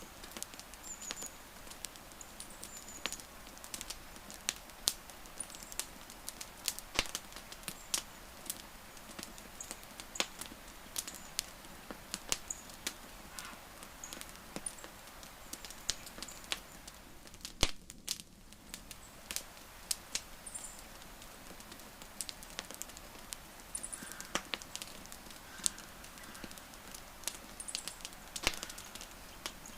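Burning wood fire crackling, with frequent irregular sharp pops and snaps over a soft hiss. Faint short high chirps come now and then.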